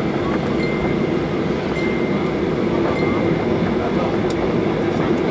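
Steady cabin rumble of a Boeing 737-800 rolling on the ground after landing: its two CFM56 engines and the wheels and airframe heard from inside the passenger cabin, a loud, even, low noise throughout.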